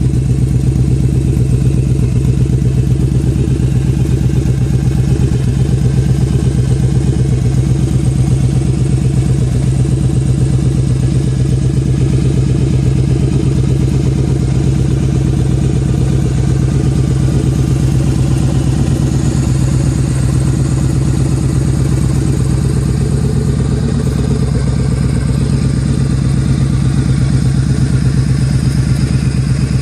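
Yamaha Dragstar 1100 V-twin running through a Cobra aftermarket exhaust, idling at a steady, even pace with no revving.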